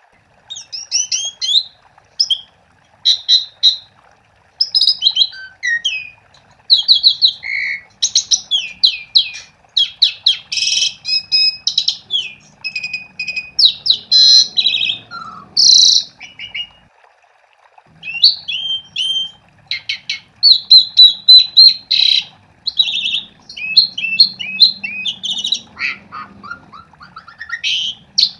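Asian pied starling (jalak suren) in full song: fast, varied phrases of whistles and rapid clicking notes, delivered in bursts with short pauses between them.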